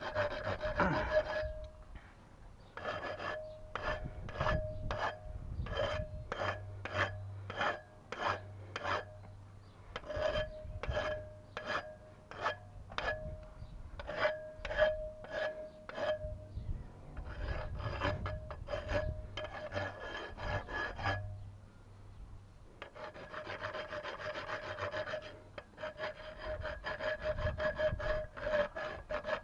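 Hand sawing strokes, about two a second, each with a ringing tone, in runs broken by a couple of short pauses.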